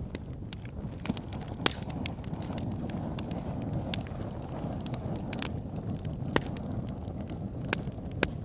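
Wood fire burning in a fireplace: a steady low rumble of flames with irregular crackling and a few sharper pops of the burning logs.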